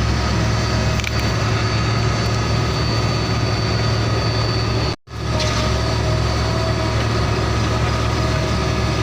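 Heavy truck engine idling with a steady low drone. It cuts out abruptly for a split second about five seconds in, then resumes.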